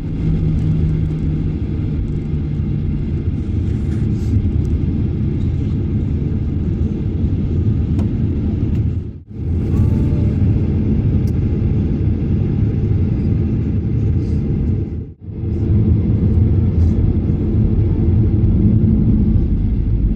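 Steady low rumble inside the cabin of a Boeing 737-800 airliner: engine and airflow noise. It is broken by two brief dropouts, about nine and fifteen seconds in.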